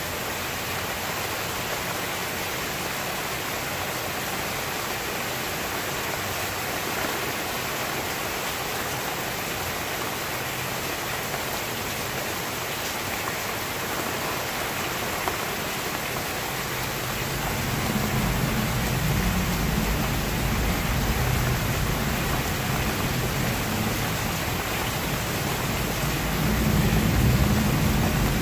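Rain falling steadily, an even hiss with no break. About two-thirds of the way through, a low rumble joins it and swells near the end.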